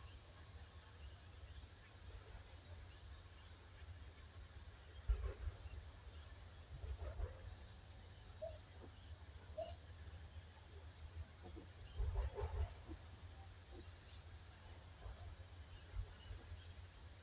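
Faint outdoor ambience: short, scattered bird chirps over a steady high insect-like hiss, with a low rumble and a few brief louder knocks or rustles, about five and twelve seconds in.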